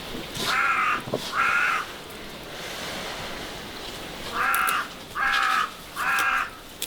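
Crow cawing: two harsh caws in quick succession, then three more a few seconds later.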